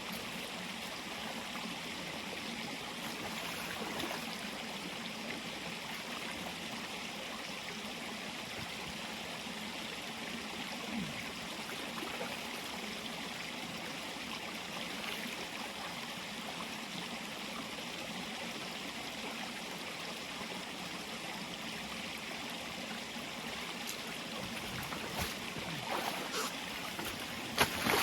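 Steady rushing hiss of water, even throughout, with a few light knocks near the end.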